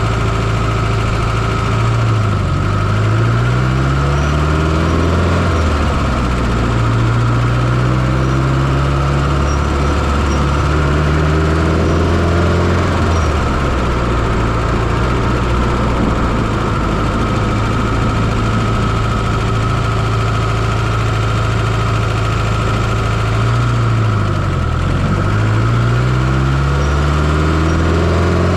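1995 Fiat Coupé 2.0 16V turbocharged four-cylinder engine running steadily, heard up close from inside the engine bay. Its low tones slowly rise and fall over a few seconds at a time, with a steady higher whine above them.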